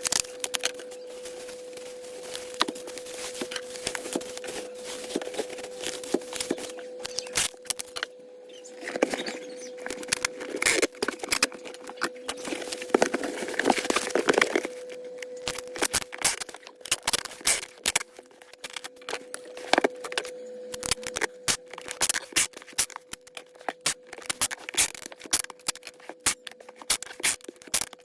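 Packing material being handled around a tablet for shipping: rustling and scraping, loudest in the middle, with many irregular sharp clicks and snips. A steady hum runs underneath.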